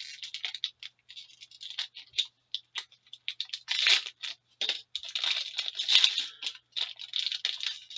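A hockey card pack's wrapper being torn open and crinkled: a run of irregular short tearing and crackling noises, getting denser and louder about halfway through.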